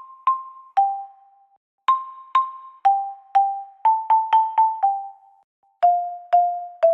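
A simple melody played one note at a time on a xylophone-like mallet instrument. Each note is struck and rings briefly, mostly about half a second apart, with a quicker run of notes around the middle and short pauses between phrases. The tune steps downward in pitch toward the end.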